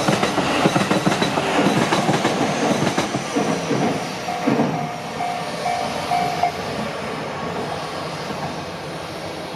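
A train running past a level crossing, its wheels clattering over the rail joints, the sound slowly fading as it moves away. The crossing's warning alarm dings in a steady repeated pulse, about two to three a second, and stops about six and a half seconds in.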